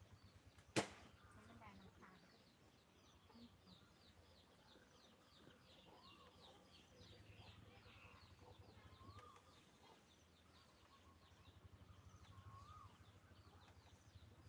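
Faint birdsong: a long series of short, high, descending chirps repeated several times a second, with a few lower whistled calls, over a faint low hum. A single sharp click sounds about a second in.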